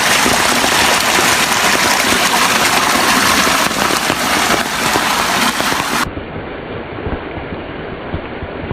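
Heavy rain and rushing floodwater: a loud, steady wash of water noise. About six seconds in it changes suddenly to a quieter, duller wash.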